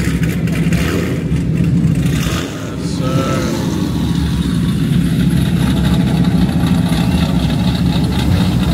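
Loud car engine running steadily, dipping briefly about two and a half seconds in.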